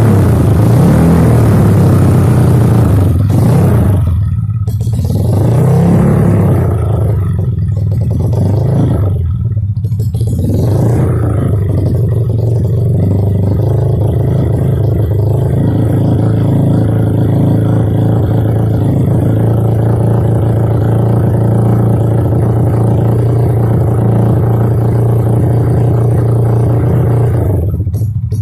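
Single-cylinder four-stroke engine of a 200cc Kawasaki KLX trail bike running through an Over Racing aftermarket exhaust. It is blipped and revved a few times in the first part, then settles into a steady idle for the second half.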